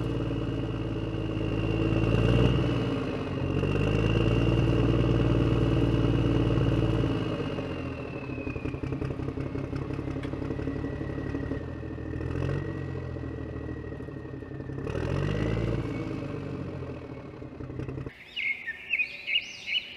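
RC HuiNa toy wheel loader's electric motors and plastic gearboxes whining and buzzing, the pitch rising and falling as it drives and works, with a high whine that slowly drops. The motors stop abruptly about two seconds before the end, leaving birds chirping.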